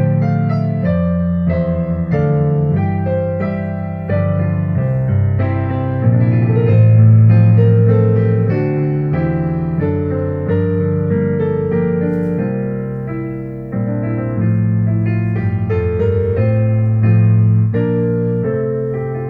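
Piano playing a hymn tune in full chords over a bass line, notes struck and left to ring.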